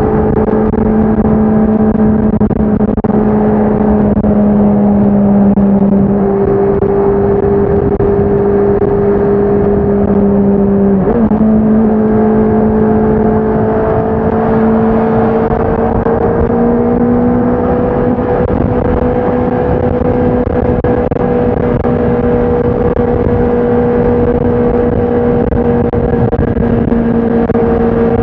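Honda CBR650R's inline-four engine and exhaust under steady riding, the engine note holding nearly constant and drifting slowly up, with a brief quick change in pitch about eleven seconds in.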